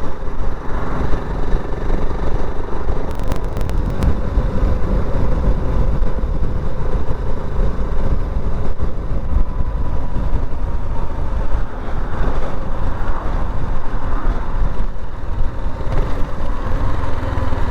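BSA Goldstar 650 motorcycle engine running steadily at road speed, heard from on the bike with heavy wind rush over the microphone.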